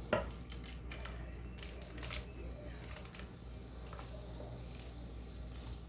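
A few sharp clicks and knocks of kitchen utensils and dishes being handled, the loudest just after the start, over a steady low hum.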